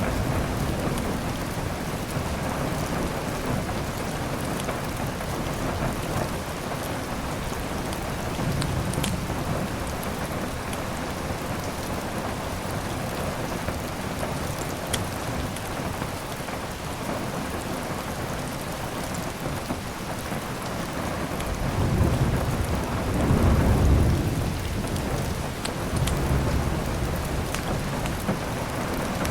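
Steady heavy rain, with thunder rumbling low about two-thirds of the way through and peaking near the end, and a fainter rumble earlier. Scattered sharp crackles of a wood fire come through over the rain.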